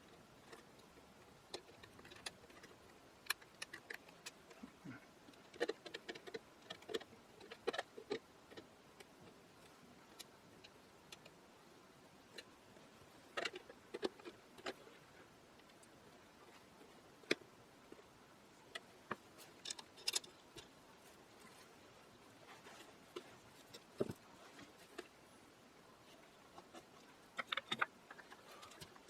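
Irregular light clicks and taps of small parts being handled and fitted on an antique radio, some coming in short clusters.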